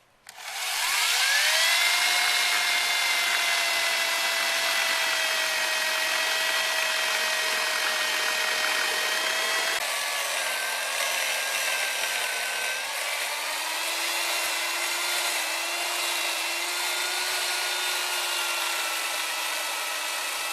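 Electric chainsaw spinning up with a quickly rising whine, then running at a steady high pitch. About ten seconds in the pitch drops and wavers as the chain bites into the wood of the tabletop slab, trimming its ends.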